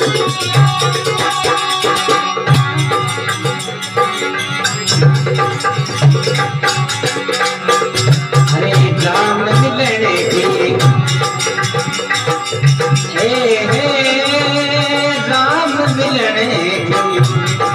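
Instrumental interlude of a Rajasthani devotional folk song: a steady hand-drum rhythm with rattling percussion, joined about nine seconds in by a gliding melody line.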